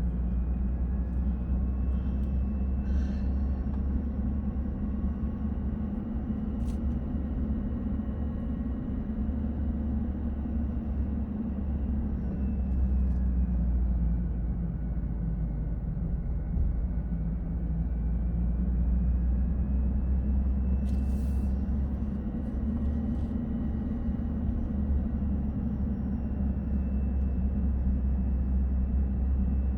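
Car driving downhill, heard from inside the cabin: a steady low rumble of road and engine noise, with a faint whine that slowly rises and falls.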